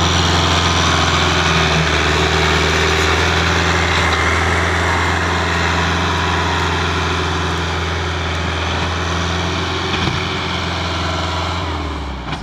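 Ford tractor engine idling with a steady low hum, easing off a little over the second half and dropping away near the end.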